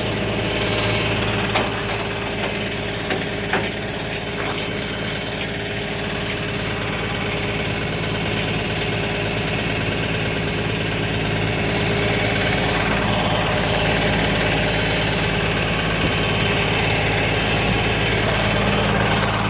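A vehicle engine idling steadily, with a few light clicks in the first few seconds.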